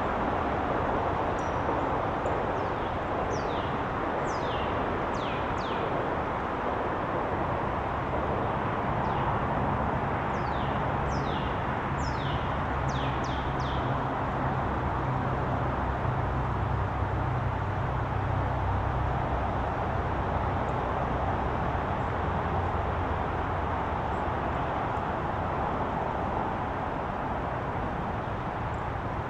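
Small birds chirping in quick, short, falling notes, in clusters through the first half, over a steady outdoor background hiss. A low droning hum, like an engine, rises in after about seven seconds and fades late on.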